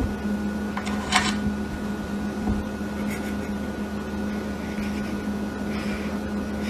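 A steady mechanical hum with a thin high tone held above it, and a few light clicks about a second in.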